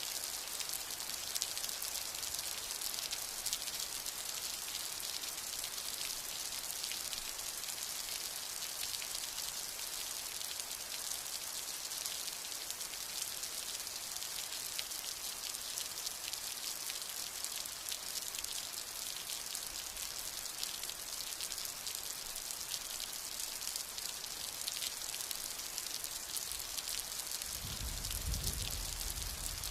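Steady rain falling, an even hiss full of the patter of individual drops. Near the end a low rumble of thunder begins.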